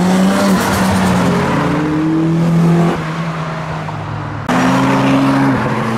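Car engines accelerating past on the road, the engine note slowly rising. About four and a half seconds in, the sound switches abruptly to another car's engine, running at a steady, higher pitch.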